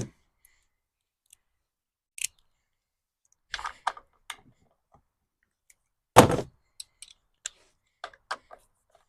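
Socket wrench and metal parts clicking and knocking while a bolt is being undone on a lawnmower engine. There are scattered sharp clicks, a louder knock about six seconds in, then a quick run of irregular clicks.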